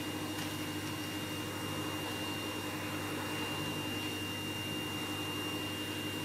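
Vacuum cleaner running steadily, a constant rushing noise with a low hum and a thin high-pitched whine.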